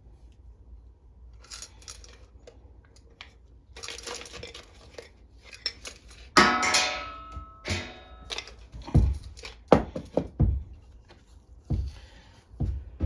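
Small metal parts and tools being handled on a workbench, clinking and knocking. A loud ringing metal clank comes about six seconds in, followed by several sharp knocks.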